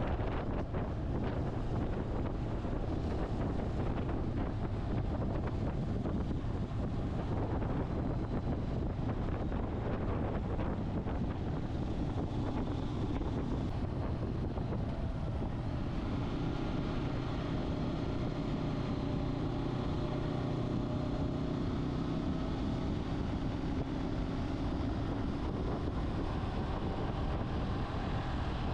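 Motorcycle on the move: wind buffeting the microphone over the engine's steady drone. The engine comes through more clearly from about halfway.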